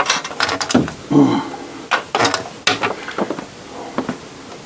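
Irregular clicks and knocks from handling vacuum cleaner parts and its cord, with a brief murmured voice about a second in.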